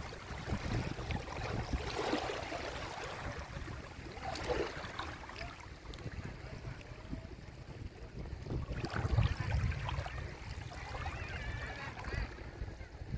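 Small sea waves washing up on a beach shore, swelling and falling back in uneven surges. Faint distant voices of people playing in the water come through near the end.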